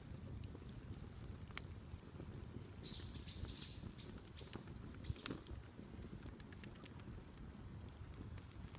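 Outdoor wood fire burning with a low steady rumble and scattered sharp crackles and pops. A bird chirps a handful of short high calls about three to five seconds in.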